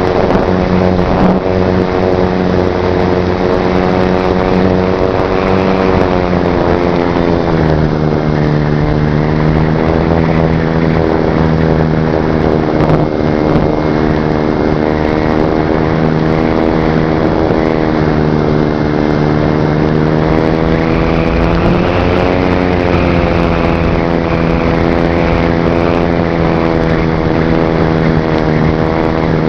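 Slow Stick RC plane's BL 2817 brushless electric motor and propeller running steadily. Its pitch drops about a quarter of the way in as the throttle eases back, then climbs again about two-thirds of the way through.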